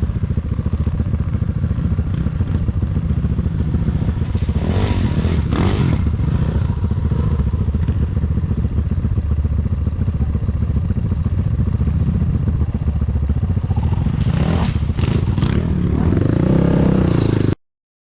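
Enduro motorcycle engine running steadily while riding on ice, with a couple of brief surges, then cutting off abruptly near the end.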